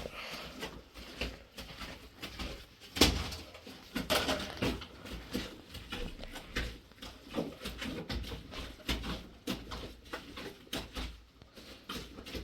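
Irregular knocks and clicks of things being handled, with one louder sharp knock about three seconds in.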